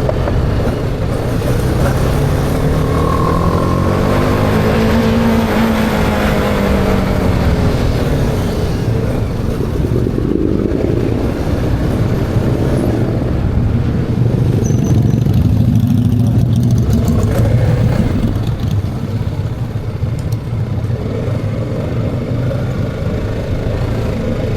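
Motorcycle engines running. The pitch rises and falls with the throttle over the first eight seconds or so, then settles into a steadier running note.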